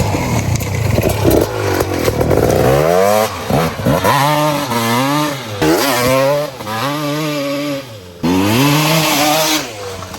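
KTM 250 SX two-stroke dirt bike engine being ridden hard, revving up and dropping back again and again, each rise and fall lasting about a second.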